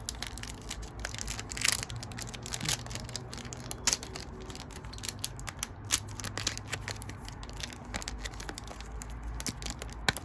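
Foil wrapper of a Pokémon trading-card booster pack being torn open and crinkled by hand, an irregular run of crackles with a few sharper snaps.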